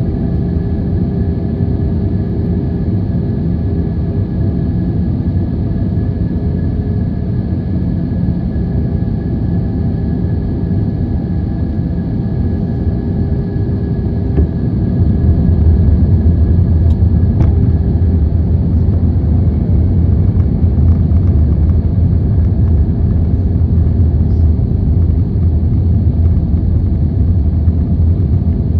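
Boeing 737-800's CFM56 jet engines and airframe: a steady rumble with several steady whining tones over it. The low rumble grows louder and deeper about halfway through.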